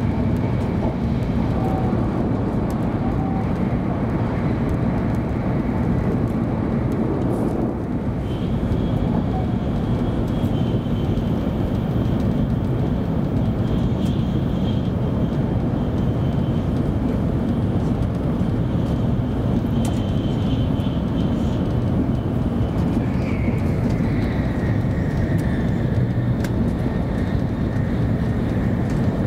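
Steady running noise inside the passenger cabin of a 700 series Shinkansen travelling at high speed, a deep even rumble. A faint high whine rides over it through the middle and drops to a lower pitch about 23 seconds in.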